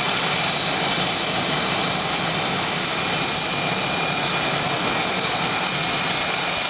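Jet engines of Blue Angels F/A-18 Hornets running, a loud steady rush with a high whine that dips slightly in pitch near the end.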